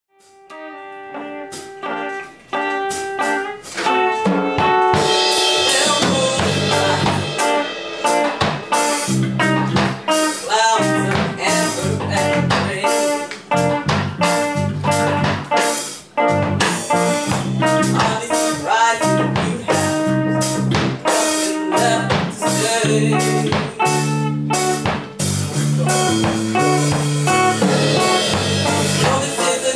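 Live blues band playing an instrumental opening: a few seconds of sparse guitar notes, then bass and drum kit come in with a steady beat.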